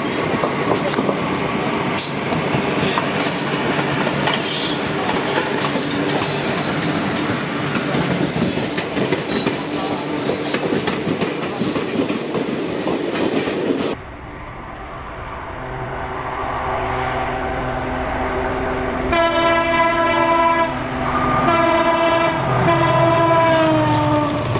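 Trains running side by side, heard from an open coach window: a loud, steady rush of wheels and rails with clicks over the rail joints, which cuts off abruptly about halfway. After a quieter stretch, a diesel locomotive's multi-tone horn blows twice, the second blast dropping in pitch as it passes.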